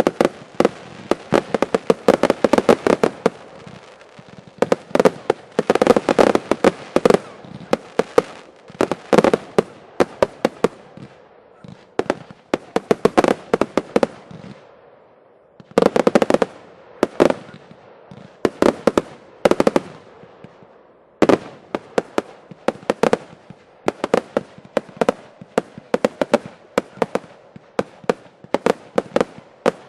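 Fireworks finale: rapid volleys of aerial shell and cake bursts, bang after bang in dense clusters, with brief lulls before each new barrage.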